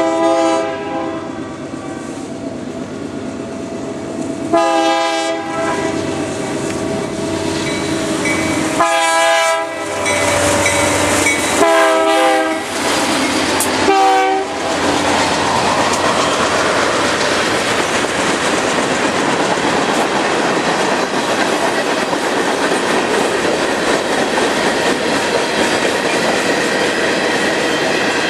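BNSF locomotive air horn sounding five separate blasts, each about a second long or less except the short last one, about 14 seconds in. After that the train runs past with a steady rush of wheels on the rails.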